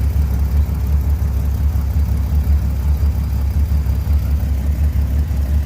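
Cold engine idling just after a start at about −4°, running low with an uneven pulsing rumble.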